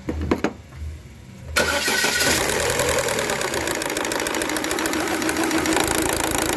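Chevrolet Cruze engine cranked and started about a second and a half in, then idling with a fast ticking clatter from the camshaft gears. The strange noise is the intake-side cam gear.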